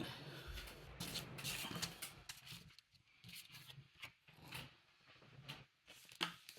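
Paper-crafting handling noise: paper and rubber stamps rubbing and rustling on the work surface in short irregular bursts, with a few light taps.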